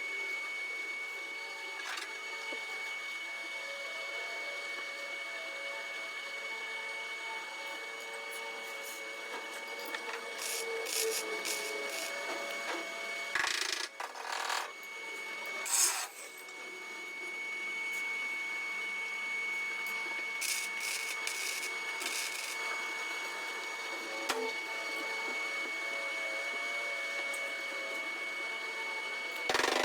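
Electric power tool running steadily with a constant high whine and a rasping, rubbing sound as it works the sheet metal of a car's rear quarter panel, with a few louder rasping bursts about halfway through.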